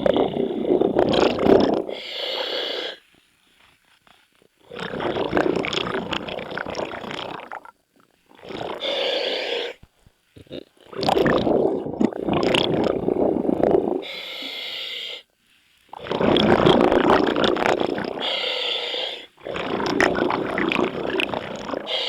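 Scuba diver breathing through a demand regulator underwater: a short hissing inhale, then a long gush of exhaled bubbles, repeating about five times with short pauses between breaths.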